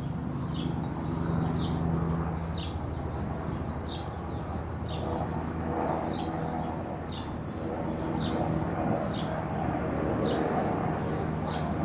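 Small birds chirping over and over, short high falling chirps a few times a second, over a steady low hum like a distant engine.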